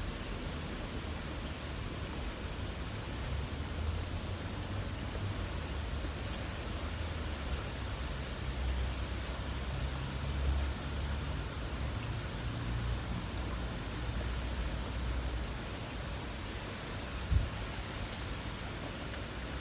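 Insects calling in a continuous, steady high-pitched trill over the even hiss of light rain, with a low rumble underneath. A single short thump about 17 seconds in.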